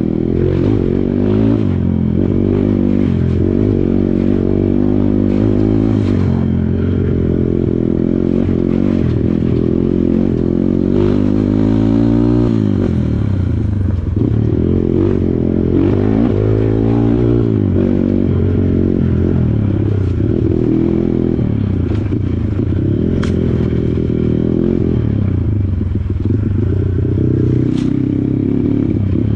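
Kawasaki KLX140 dirt bike's single-cylinder four-stroke engine running under load, its pitch rising and falling again and again with the throttle, with some clattering of the bike.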